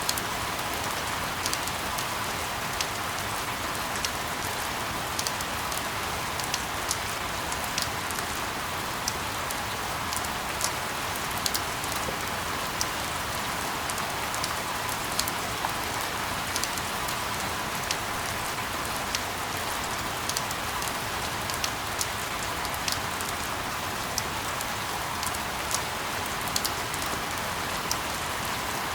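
Steady rain sound: an even hiss of rainfall with irregular sharp ticks of drops landing, played as a sleep soundscape.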